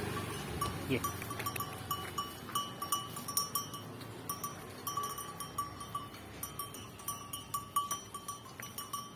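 Small metal bell on a Murrah buffalo clinking in quick, irregular strokes, a few a second, as the animal moves while grazing.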